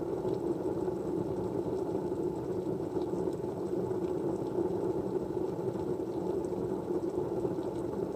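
Steady low, even rushing white-noise background with a few faint small ticks scattered through it.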